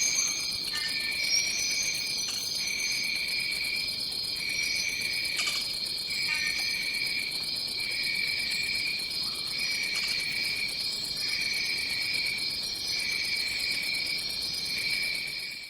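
Dense jungle insect chorus: a steady high-pitched drone, a lower trill that comes in pulses a little over a second apart, and short high chirps above them. It fades out at the very end.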